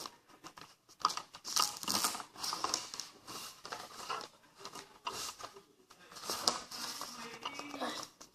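Sheet of paper being handled, folded and creased, with irregular crinkling and rustling strokes.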